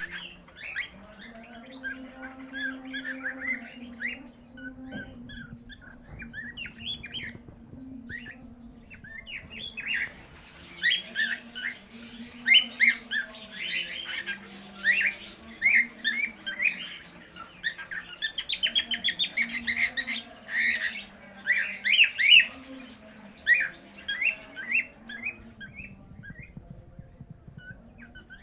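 Cockatiel singing: a long run of quick chirps and whistled notes, sparse at first, thick and loud through the middle, thinning toward the end, over a faint steady low hum.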